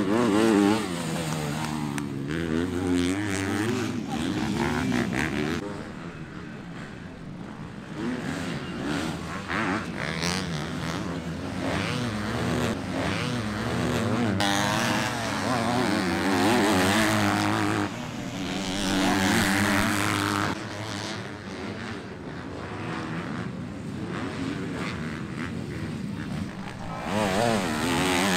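Motocross dirt bikes racing. Several engines rev hard and drop back again and again as the bikes accelerate, shift and brake around the track, so their overlapping pitches rise and fall throughout.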